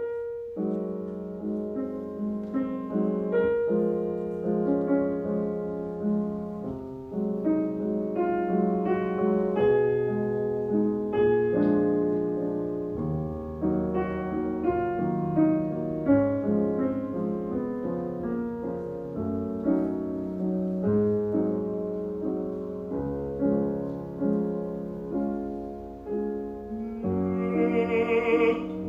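Piano accompaniment of a classical art song playing a solo passage, with a bass singer's voice coming in near the end.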